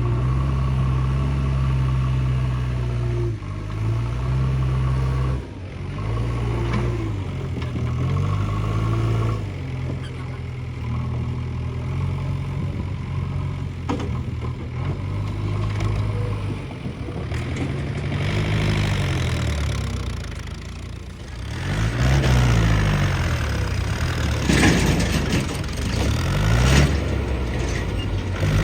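Heavy diesel engine of a backhoe loader at work, running steadily and revving up and down again and again. Rougher noise with knocks joins it in the last few seconds.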